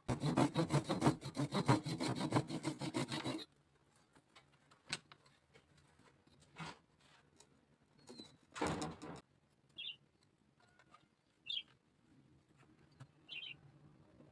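A hand tool scraping bamboo in rapid back-and-forth strokes for about three and a half seconds, then scattered light taps. Later come three short high chirps from a small bird.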